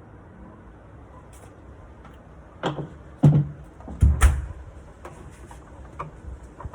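A few knocks and clunks of wooden furniture and its hardware being handled, the loudest ones between about two and a half and four and a half seconds in, followed by lighter clicks.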